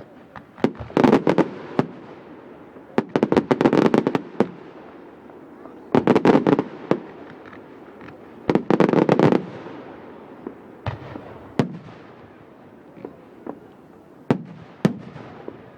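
Fireworks going off: four clusters of rapid crackling bangs about two to three seconds apart, then a few single bangs spaced out near the end.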